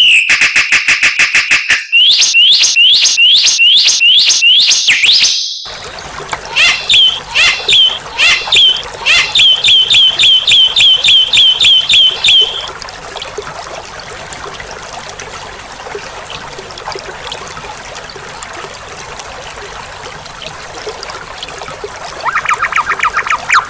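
Songbird song: fast, evenly repeated chirps for the first five seconds or so, then a run of quick, repeated falling whistled notes over a steady outdoor hiss that stops near the middle, leaving mostly hiss before rapid chirping starts again near the end.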